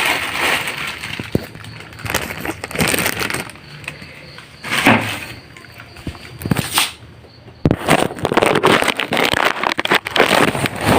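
Irregular rustling, crinkling and knocks as a small speaker and its packaging are handled, in uneven bursts with a sudden louder stretch a bit past the middle.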